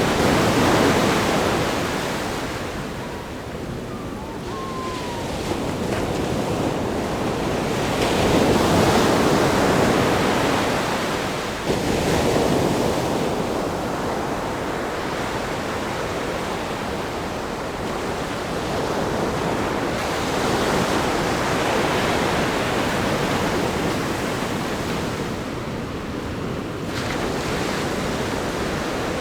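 Ocean surf breaking on a rock groin, a steady wash of water noise that swells and ebbs. The breakers are loudest near the start and again about eight to ten seconds in.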